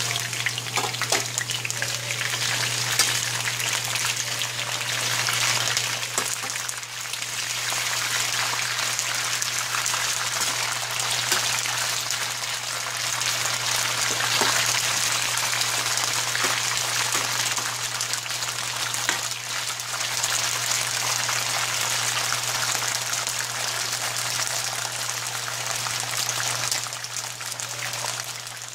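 Green beans sizzling steadily in hot oil and butter in a stainless steel skillet, with a few brief scrapes of a spatula stirring them.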